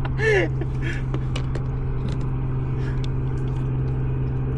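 Aircraft engine droning steadily overhead at one even pitch.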